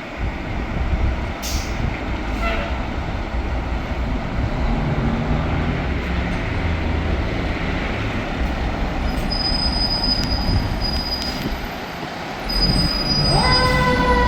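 A loud, steady rumble with a thin high squeal partway through. About thirteen seconds in, a fire truck siren winds up and then holds its tone.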